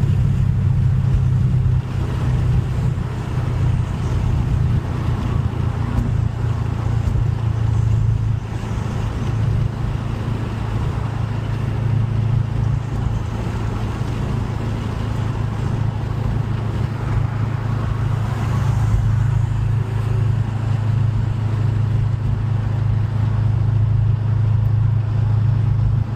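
Subaru WRX's turbocharged flat-four running at a steady, even engine speed, a constant low drone with no rising revs, as when cruising after the pull.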